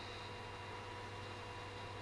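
Low steady hum with faint steady tones, and a thin high-pitched whine that stops shortly after the start.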